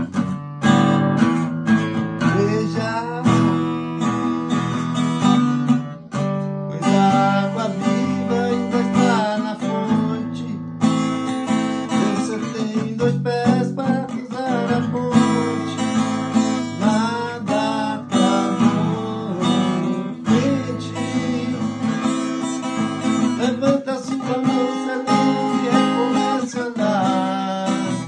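Acoustic guitar playing continuously, chords with melody notes over them.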